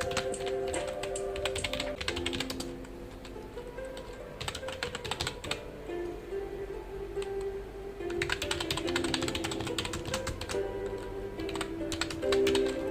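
Computer keyboard typing, rapid key clicks in bursts with short pauses between them. Soft background music with held notes plays underneath.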